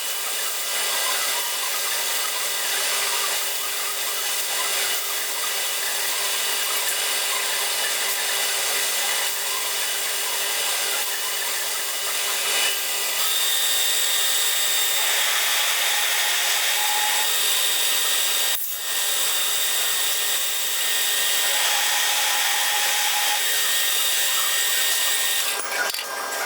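A power tool's motor running steadily as it cuts a metal part for a model steam engine, with a momentary break about three quarters of the way through.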